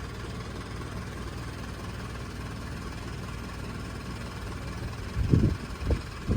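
Diesel engine of a TCM forklift idling steadily with an even low pulsing. Near the end come a couple of louder low rumbling bursts.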